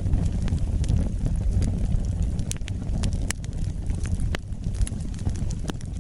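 Wood fire burning: a steady low rumble of flames with frequent sharp, irregular crackles and pops.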